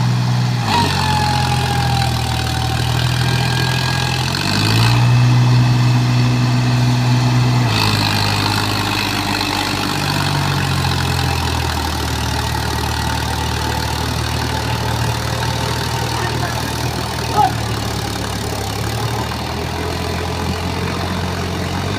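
New Holland 5510 tractor's diesel engine running steadily, growing louder for about three seconds around five seconds in, then settling back. A single short knock is heard near the end.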